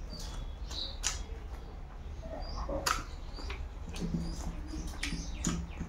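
Close-miked chewing and lip-smacking of a person eating rice and fish by hand, with irregular sharp wet clicks every second or so.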